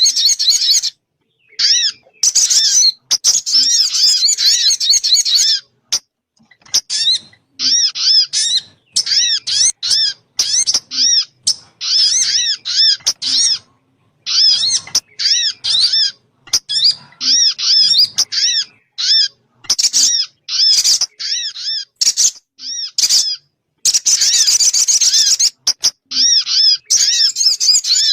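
Lure-call recording of the sogun bird: bursts of rapid, high, chattering calls made of quick repeated arched notes. The bursts are broken by short silent gaps every second or two.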